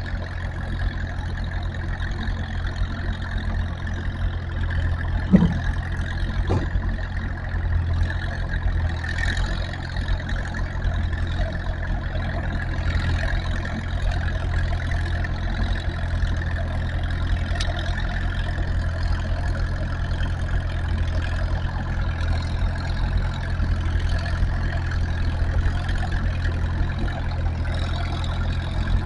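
Tractor engine running steadily with a deep, even drone. A brief, sharper higher sound comes in about five seconds in.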